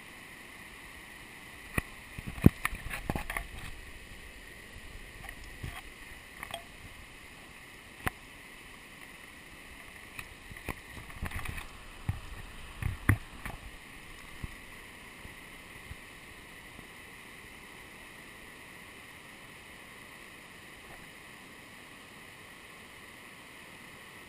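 Steady rush of running water, with a run of sharp knocks and clatters in the first half, the loudest about two seconds in and again near the middle.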